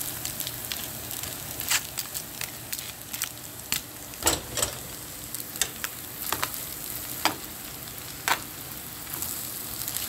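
Rice-stick noodles and cabbage sizzling in a pan while being tossed with metal tongs. There is a steady hiss, with irregular sharp clacks of the tongs against the pan, about half a dozen in all.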